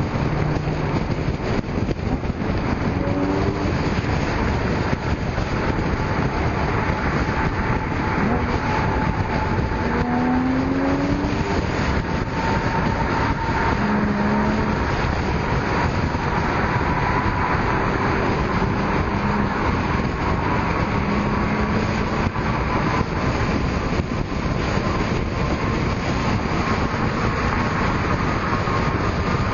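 Steady road traffic noise of cars driving by, with brief engine notes coming and going over it.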